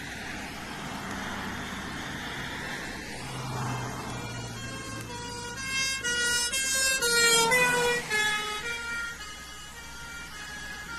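British emergency vehicle's two-tone horn alternating between two notes as the vehicle approaches and passes. The horn is loudest about two-thirds of the way through, where its pitch drops as it goes by, over a low engine rumble.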